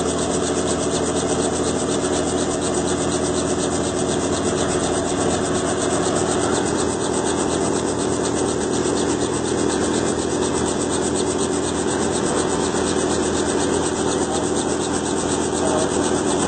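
Helicopter running steadily: a loud, even drone with a very fast pulsing from the rotor and engine, unbroken throughout.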